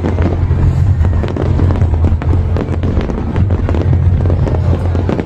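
Fireworks going off in a dense, continuous crackle of sharp bangs over a steady low rumble.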